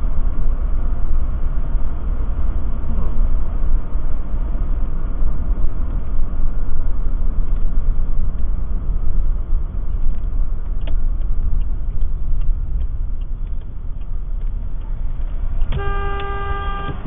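Steady low road and engine rumble inside a moving car, with a run of light regular ticks in the middle, then a car horn sounded once for about a second near the end, a warning at a truck failing to give way at a roundabout.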